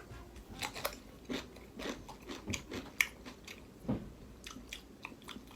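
A person chewing raw cucumber: irregular, crunchy bites and chews, several a second.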